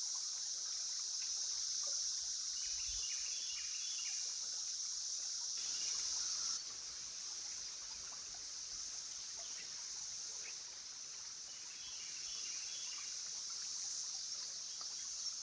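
Steady high-pitched droning chorus of periodical cicadas, with a soft rush of river water beneath it. The chorus eases a little about six and a half seconds in.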